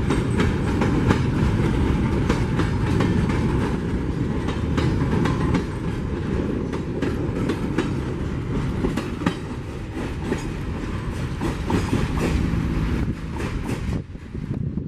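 Empty mineral hopper wagons of a freight train rolling past. The wheels clack over the rail joints above a steady rumble. The sound drops away near the end as the last wagon passes.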